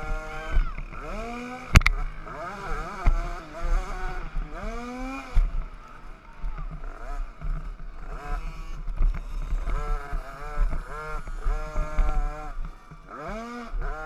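Small 50cc two-stroke motocross bike engines revving up and down over and over as the bikes ride around the track. There is one sharp knock about two seconds in.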